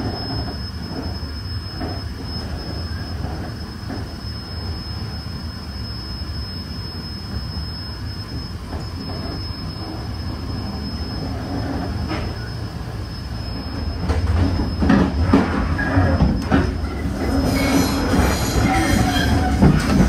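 Passenger train running along the rails with a steady rolling rumble and knocks from the wheels. About two-thirds of the way through it grows louder and the wheels begin to squeal in several steady tones.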